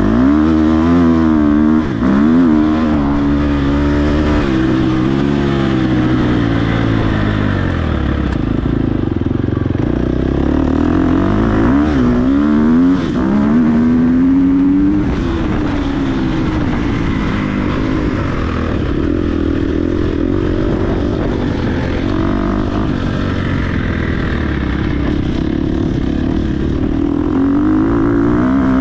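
Dirt bike engine being ridden hard off-road, its pitch rising and falling over and over as the rider opens and closes the throttle and shifts.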